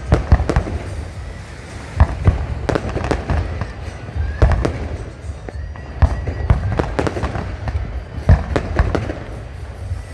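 Fireworks display: aerial shells bursting in an irregular, rapid string of sharp bangs, several a second at times, over a continuous low rumble.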